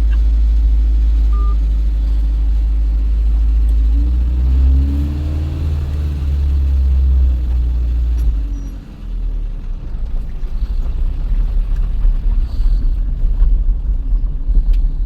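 Motor vehicle engine rumbling, its pitch rising and falling about halfway through, then giving way to a rougher, uneven rumble.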